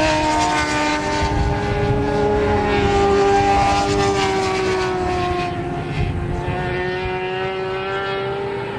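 Several racing motorcycle engines running at speed together, their overlapping pitches gliding slowly down and up as the bikes go past. The sound eases off slightly in the second half.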